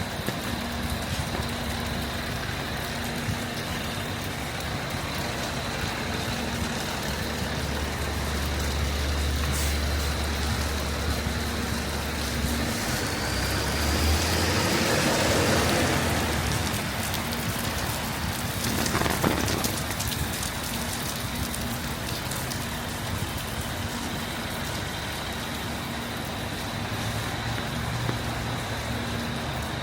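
Heavy rain falling steadily on the street, with city traffic: a low engine rumble from a vehicle about a quarter of the way in, then a vehicle passing on the wet road about halfway through.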